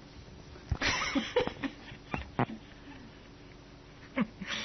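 An animal calling in short bursts: one loud, harsh call about a second in, then several short calls and clicks, and another call near the end.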